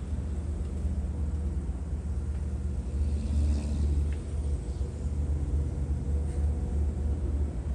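Diesel locomotive engines of a slow-moving passenger test train, running with a steady low rumble that swells slightly a few seconds in.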